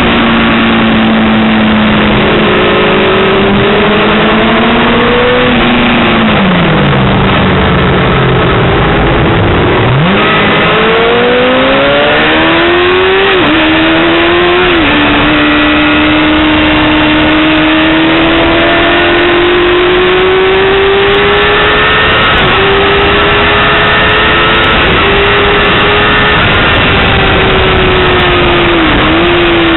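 Yamaha R6's 600cc inline-four engine at high revs on track. The revs fall away for a few seconds on braking, then climb hard, with two quick upshifts in succession followed by a long pull through the gear, over a steady rushing noise.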